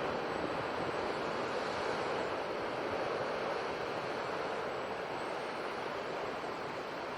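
Sea surf washing steadily onto the shore, a continuous rushing noise that swells slightly in the first few seconds and eases a little after.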